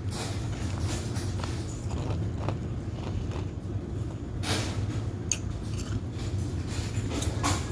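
Ice being crunched and chewed in the mouth, a few sharp crunches over a steady low hum of laundromat machines.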